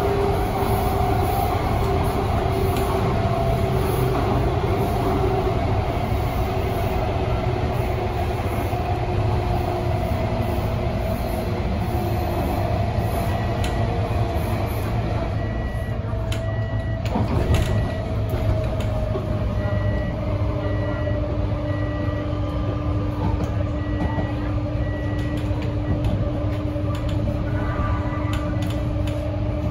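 Interior of an MTR Tung Chung line A-train in motion: a steady running rumble, with the traction motors' whine slowly falling in pitch as the train slows. A steady hum takes over from about two-thirds of the way in, and a row of short high beeps sounds in the second half.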